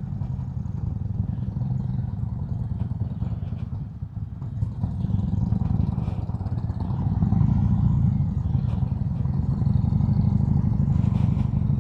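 Harley-Davidson Road King's Milwaukee-Eight V-twin engine running at low speed as the bike creeps over gravel up an incline. The engine eases off briefly about four seconds in, then picks up again and runs a little louder.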